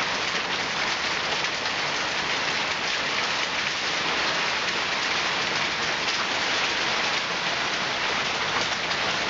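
Heavy rain mixed with small hail, a steady dense patter with many fine ticks of hailstones striking leaves and the ground.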